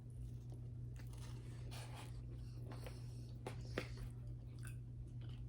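A person chewing a mouthful of breaded fried chicken sandwich close to the microphone, with scattered soft crunches and mouth clicks, over a steady low hum.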